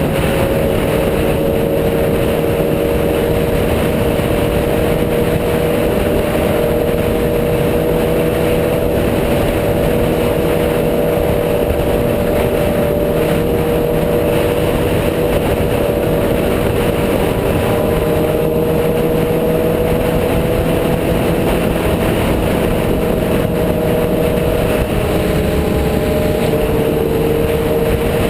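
Motorcycle engine running at a steady cruising speed, its pitch holding nearly level with only slow small rises and falls, under a loud continuous rush of road and wind noise.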